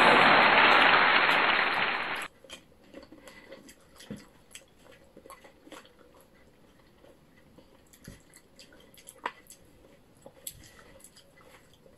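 A loud steady hiss that cuts off suddenly about two seconds in, then quiet mouth sounds of people chewing fresh cherries: small wet clicks and smacks scattered through the rest.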